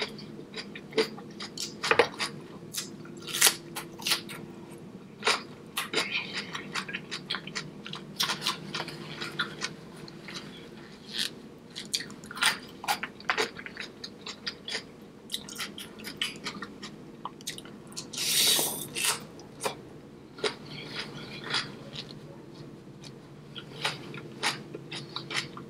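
Close-miked mukbang eating of a seafood boil: wet chewing and biting with many sharp crunches and clicks. There is a louder rushing sound lasting about a second, past the middle.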